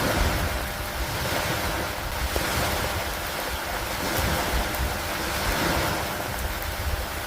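Steady rain and wind over lake water, with waves washing in slow surges every couple of seconds and a low rumble of wind on the microphone.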